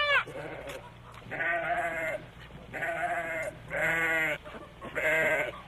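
Goat bleating four times, each bleat under a second long and with a quavering pitch.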